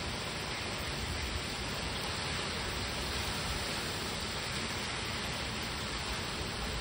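Heavy rain from a hurricane rain band pouring steadily onto a lawn and the leaves of a large tree, a constant even hiss.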